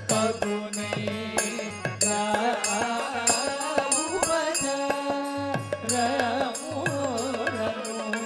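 Devotional bhajan music: a hand drum keeps a steady rhythm under a winding melodic line, with a high metallic ringing above it.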